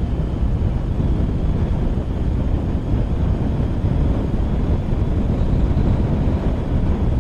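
Steady rush of wind and road noise from a moving motorcycle, with the engine running underneath, heard from the rider's own microphone.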